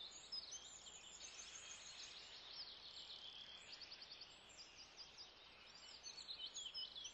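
Faint birdsong: many quick, high chirps and short trills from several small birds over a low hiss.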